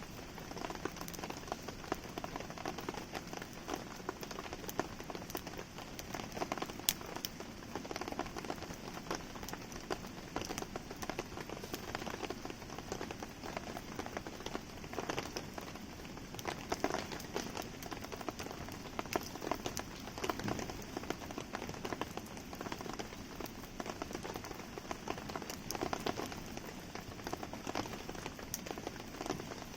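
Steady rain falling, with many sharp raindrop taps, alongside the crackle and pops of a wood campfire burning.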